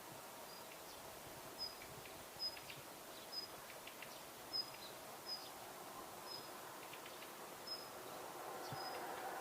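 Daurian redstart calling: a short, high, thin note repeated about once a second, with faint ticks between the notes, over a steady low background hum.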